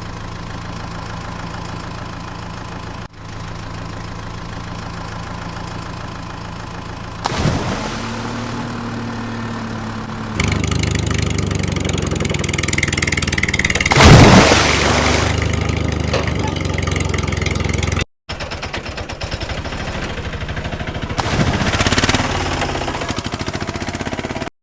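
Vehicle engines running in several abruptly cut segments, each a steady engine note, with a short rising tone partway through and a loud sudden hit about two-thirds of the way in, then a smaller one near the end.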